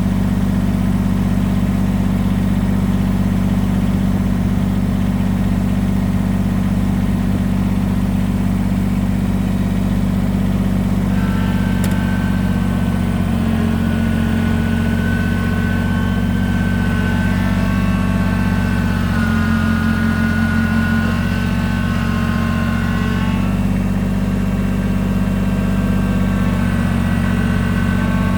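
Kubota BX23S sub-compact tractor's three-cylinder diesel engine running steadily. A higher whine joins it from about eleven seconds in until about twenty-three seconds, and again near the end.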